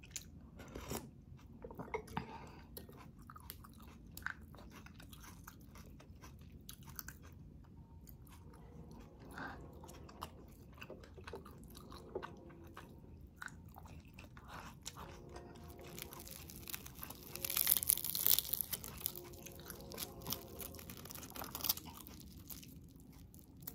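Close-up chewing and crunching of crisp fried food, with small wet mouth clicks; a louder crackling stretch comes about three-quarters of the way through.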